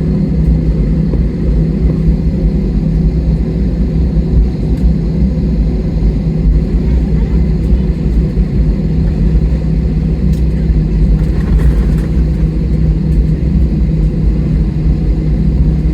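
Steady low rumble of an airliner's idling jet engines and cabin air system heard inside the cabin while on the ground before takeoff, with a constant low hum running through it.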